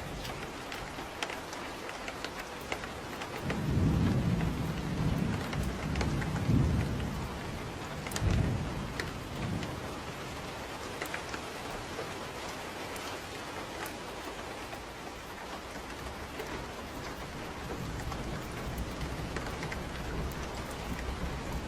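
Steady rain with a deep roll of thunder. The thunder swells a few seconds in and rumbles for about six seconds before fading back into the rain. Scattered sharp ticks sit on top of the rain.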